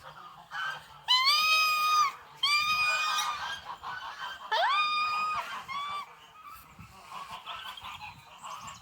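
Domestic geese honking: three loud honks of about a second each, each rising quickly to a held pitch, then a short fourth honk about six seconds in.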